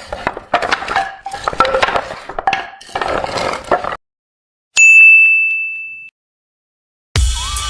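Clattering and clinking for about four seconds, which stops abruptly. After a short gap comes a single loud, bright, bell-like ding that rings for about a second and then cuts off. Music starts near the end.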